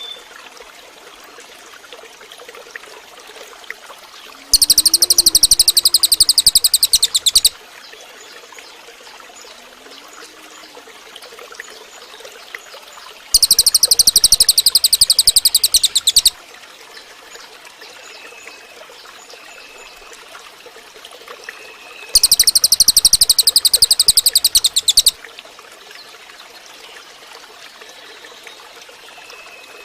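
Cililin (crested jay) giving three loud, high-pitched, rapid rattling calls, each about three seconds long and spaced about nine seconds apart. Fainter short bird notes come in between.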